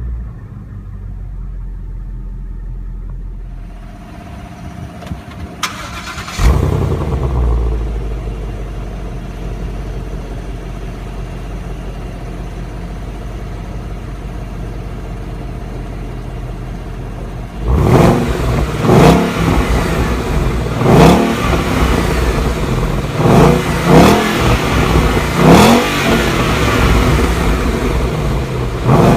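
Ford Mustang GT's 5.0-litre V8 running: the note rises sharply about six seconds in, then settles into a steady idle. From about eighteen seconds in the throttle is blipped about seven times, each rev rising and falling quickly.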